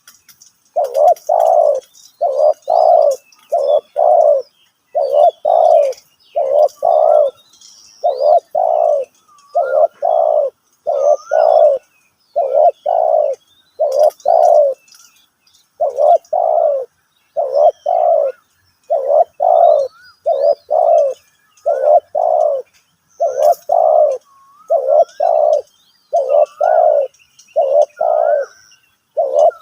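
Spotted dove cooing over and over in short doubled coos, roughly one pair a second, with faint high chirps of small birds behind.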